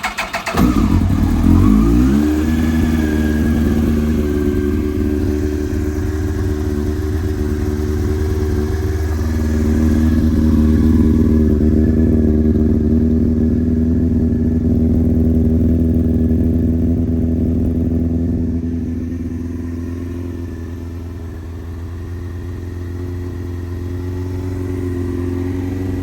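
2000 Yamaha R1's inline-four, choke on, cranked on the electric starter and catching within about half a second, the revs rising briefly before it settles into a steady fast cold idle through a Micron slip-on exhaust. The idle eases down a little about twenty seconds in.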